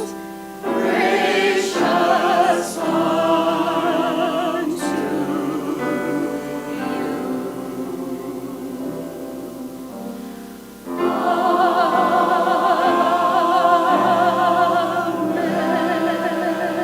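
Church choir singing held chords with vibrato; the sound eases off toward ten seconds in, then a new chord swells in loudly about eleven seconds in.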